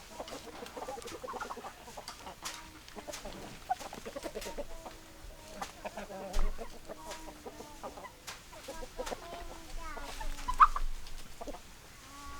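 Hens clucking, a run of short calls from several birds, with one louder call about ten and a half seconds in.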